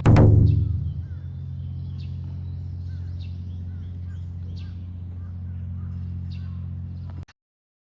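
A steady low mechanical hum, like an engine running, with small birds chirping over it again and again. It opens with a sudden loud bump and cuts off abruptly near the end.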